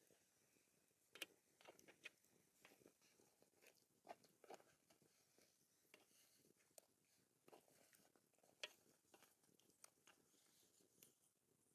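Faint, irregular soft crunches and clicks of someone chewing while eating.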